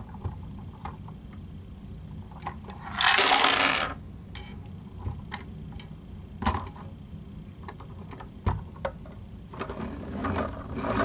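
Plastic Lego parts clicking and knocking as the model garbage truck's mechanisms are worked by hand. A loud rattling rush lasting about a second comes about three seconds in.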